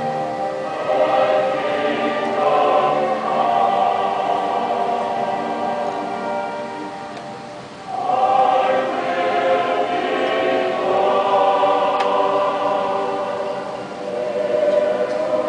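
A choir singing slow, held chords; the phrase fades about halfway through and a new one starts at once.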